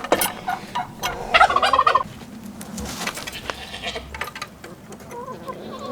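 Domestic turkey gobbling: one loud, quickly rattling call about a second and a half in, with scattered sharp clicks around it.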